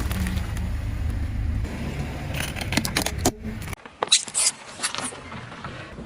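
Car rolling over crunchy items. The low rumble of the car gives way to a run of sharp cracks and snaps as they are crushed under the tyre. After a sudden cut, a few more loud crackling snaps follow.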